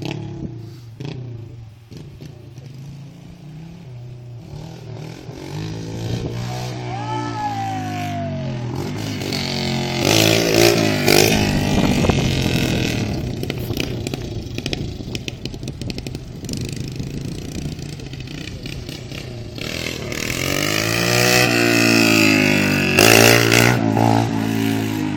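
Dirt bike engine running and revving, its pitch rising and falling, loudest twice: about ten seconds in and again near the end.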